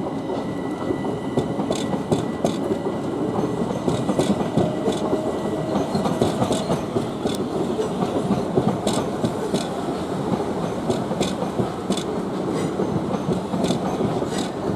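Southern Class 377 Electrostar electric multiple unit running past, its wheels rumbling steadily with irregular sharp clicks as they cross rail joints and pointwork.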